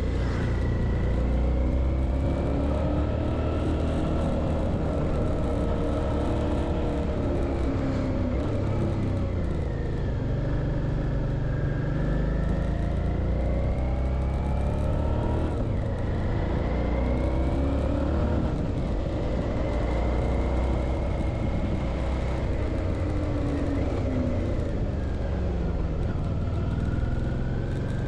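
Suzuki V-Strom 650's V-twin engine under way. Its pitch climbs and drops again several times as the bike accelerates and changes gear, over a steady low rumble.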